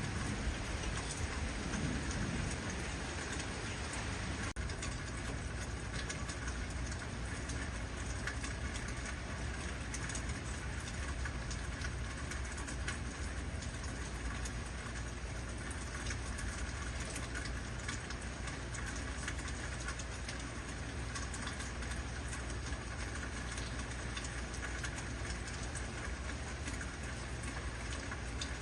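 Heavy rain falling steadily, a dense hiss of drops pattering on surfaces, with a low rumble that fades out in the first few seconds.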